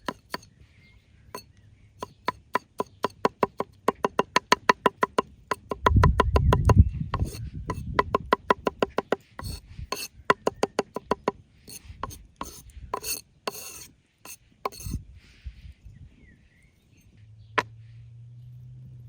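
Knife chopping quickly on a wooden cutting board, about five strokes a second, with a heavier thump about six seconds in. Slower, scattered knocks follow, then a faint low hum near the end.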